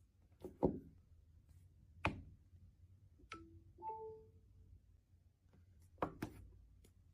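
Faint clicks and light knocks of a MagSafe Duo charger and its packaging being handled during unboxing, a few separate taps spread out with two close together near the end. About three to four seconds in there is a short pitched ping of a couple of brief tones.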